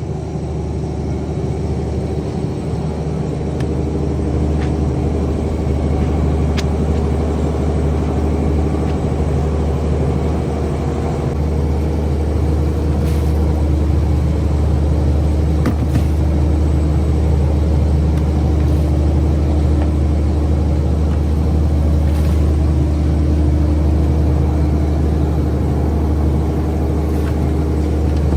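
Fishing boat's engine running steadily with a low hum, getting a little louder about eleven seconds in.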